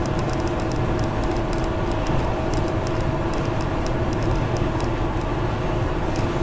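A vehicle driving, heard through a dash camera: steady road and engine noise with a constant hum and light irregular ticking.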